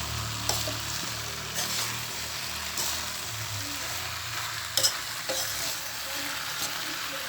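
Chicken and okra frying in tomato gravy in a pan with a steady sizzle, stirred now and then with short scraping strokes against the pan.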